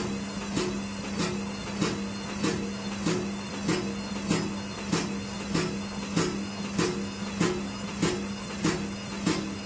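IFB washing machine running with a steady motor hum and a sharp knock repeating evenly about one and a half times a second: the tub banging because the clips on its dampers underneath have come loose.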